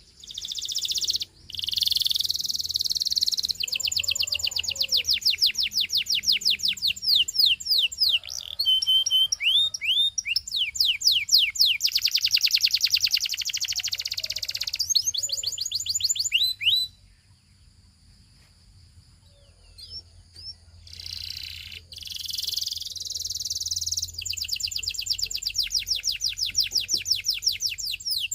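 Canary singing long phrases of fast trills made of rapidly repeated rising notes, changing from one trill to the next. The song breaks off for about four seconds past the middle, then starts again.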